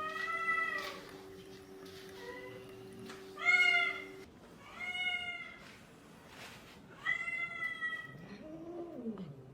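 A cat meowing four times, each call under a second long, with a lower call that rises and falls near the end.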